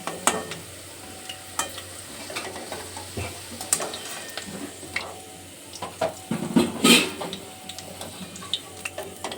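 Cashews and raisins sizzling in hot oil in a pan while a spoon or spatula stirs and scrapes them, with scattered clicks and knocks of the utensil against the pan. The loudest clatter comes about seven seconds in.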